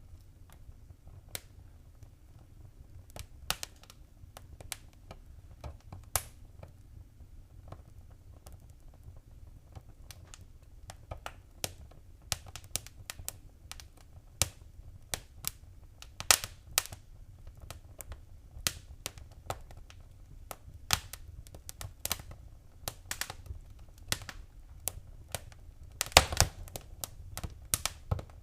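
Wood fire crackling in a fireplace: irregular sharp pops and snaps over a low rumble of burning, with a flurry of louder pops near the end.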